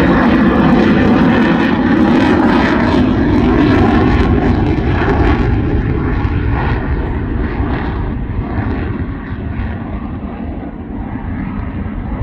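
Loud jet noise of an F-16A fighter's single turbofan engine, strongest at first and fading steadily as the jet flies off, its high hiss thinning out over the last seconds.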